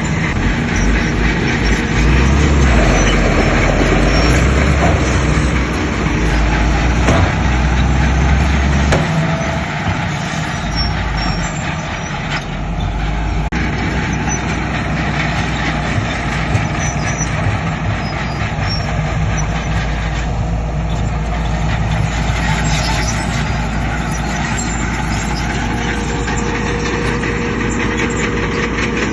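Diesel engines of heavy earthmoving machinery, a bulldozer and dump trucks, running at work. The engines are deepest and loudest for the first several seconds, then settle into a steady drone.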